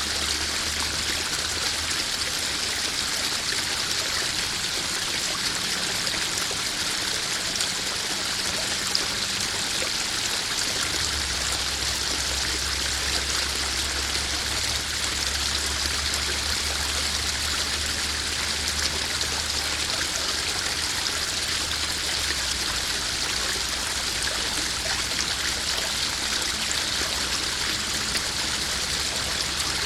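Small garden waterfall splashing steadily into a koi pond.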